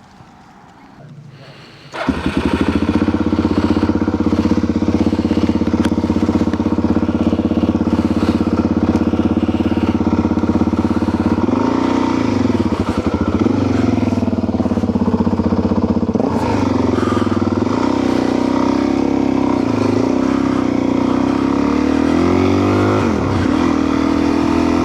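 Motorcycle engine coming in abruptly about two seconds in and running at a steady idle. From about twelve seconds its speed rises and falls repeatedly as the bike moves off.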